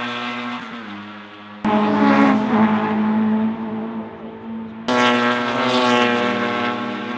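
Historic racing saloon cars' engines running at high revs as they pass on track, one note swelling and fading after another. The sound cuts abruptly to a new loud engine about a second and a half in and again about five seconds in.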